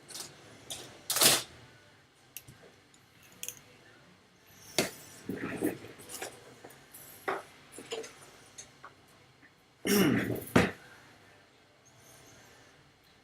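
Scattered small clicks, taps and clinks of hand tools such as tweezers being picked up, set down and handled on a soldering workbench, with a louder brief clatter about a second in and another near ten seconds in.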